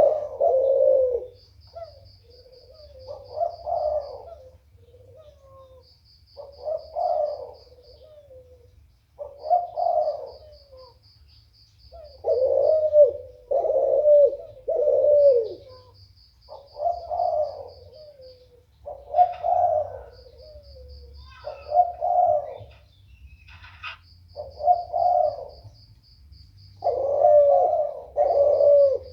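Puter dove cooing over and over, each coo phrase lasting about a second with short pauses between, a call meant to set other doves calling back. A faint high trill comes in short runs of a second or so behind it.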